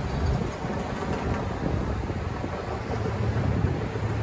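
A train running through the station: a steady rumble with a low hum that grows stronger near the end, mixed with wind buffeting the microphone.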